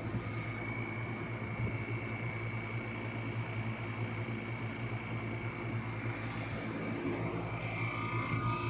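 Carlyle 06D818 semi-hermetic reciprocating compressor running steadily with an even hum and a faint high tone, a sign that it is still in good running condition.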